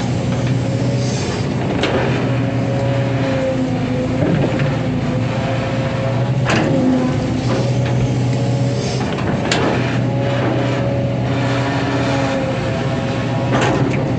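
Hydraulic excavator's diesel engine running steadily under work, with a wavering whine above the engine note. Four sharp metallic knocks come a few seconds apart.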